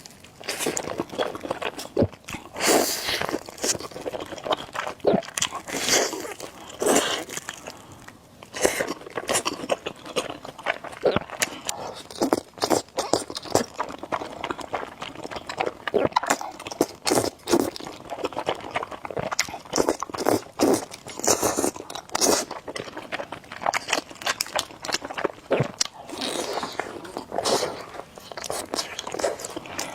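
A person eating close to the microphone: irregular crunching bites and wet chewing, one after another.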